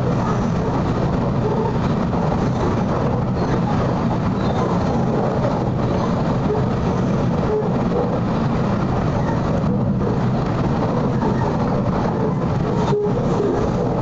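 Train running at speed, heard from inside the carriage: a steady noise of wheels on the rails.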